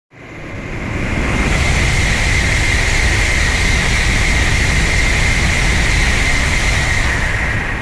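Shinkansen bullet train passing through the station at high speed without stopping: a loud rushing roar of wheels on rail and air that builds over about a second, holds steady with a strong high hiss, and eases slightly near the end.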